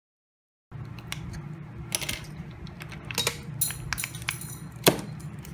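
Sharp clicks and short scrapes of small tools working against a smartphone's frame and battery while the glued-in battery is pried out, over a steady low hum. Sound starts abruptly under a second in.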